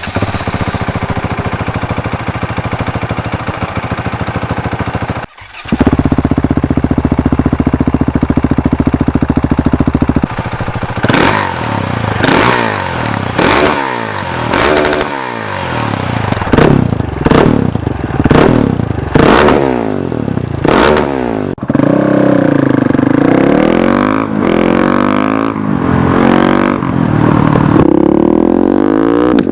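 Husqvarna 701 Supermoto's single-cylinder engine through an Akrapovic exhaust, cut between clips with the baffles in and out: idling, then a louder idle about five seconds in, then a string of sharp throttle blips, and near the end the bike riding with the revs rising through the gears.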